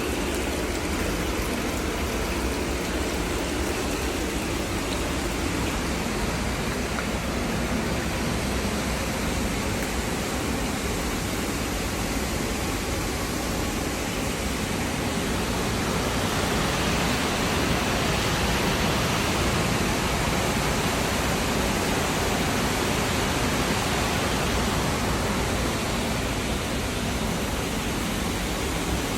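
Steady rush of running water, an even hiss with no breaks, growing a little louder about halfway through.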